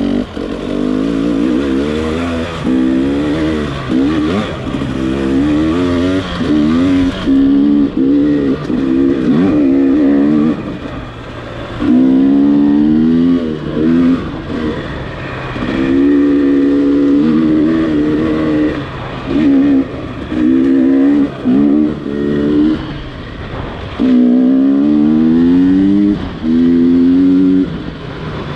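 Gas Gas EX300 TPI single-cylinder two-stroke dirt bike engine under load, revving up in repeated bursts of throttle, each rising in pitch and then dropping away as the throttle is rolled off.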